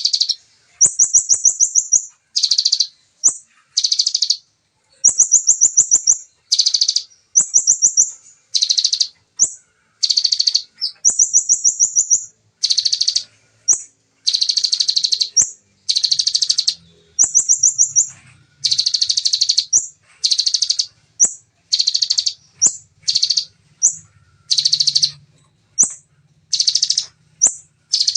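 Bar-winged prinia (ciblek) singing its rapid 'shooting' song: short, high, clear phrases repeated in quick succession, one or two a second. Some phrases are fast buzzy trills.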